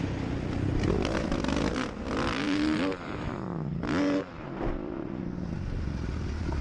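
Motorcycle engine running and revving, its pitch rising and falling a couple of times in the middle.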